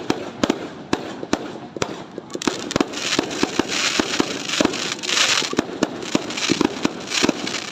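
Fireworks going off in rapid, irregular succession: many sharp bangs and pops overlapping, with patches of crackling hiss from about three seconds in.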